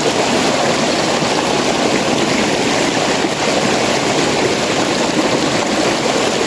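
Loud, steady rush of water from a mountain stream pouring over a waterfall.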